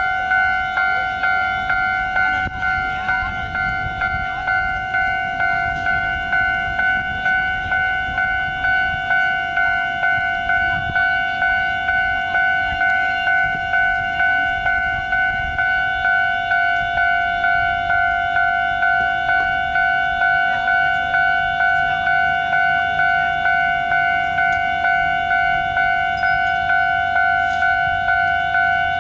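Railway level crossing warning bell ringing continuously: an even, repeated ding, about one and a half strokes a second. A low rumble runs underneath and grows steadier from about two-thirds in.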